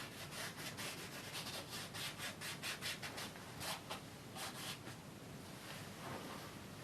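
Oil paint being worked onto canvas in quick, short scrubbing strokes, about two or three a second, while splashes of water are put in. The strokes fade to a fainter rubbing after about five seconds.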